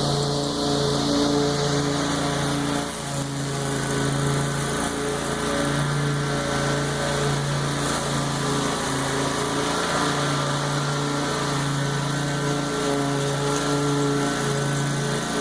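Lawn mower engine running steadily while cutting tall, overgrown grass, with a brief dip in level about three seconds in.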